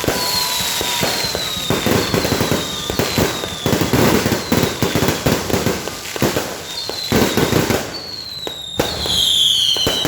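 Fireworks going off in dense volleys: rapid crackling pops and bangs, with a whistle falling in pitch about once a second and a louder cluster of falling whistles near the end.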